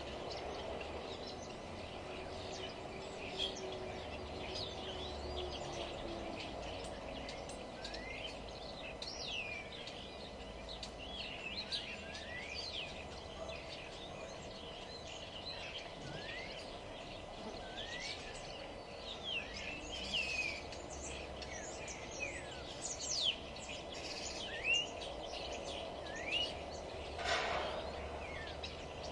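Several small songbirds chirping and singing in quick short phrases and rising whistles, over a steady background hum of ambient noise. A brief louder noise comes near the end.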